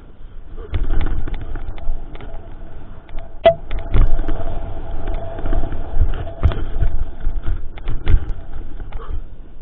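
Mountain bike rattling and knocking over a rough trail, heard from a camera mounted on the bike, with rumbling wind noise on the microphone. Sharp knocks from bumps come throughout, and a steady whine sounds for a few seconds in the middle.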